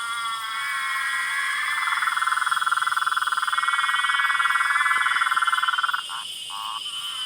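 Chorus of frogs calling together as a dense, rapidly pulsing trill, with steady high-pitched tones running above it. About six seconds in the chorus stops, leaving two short calls.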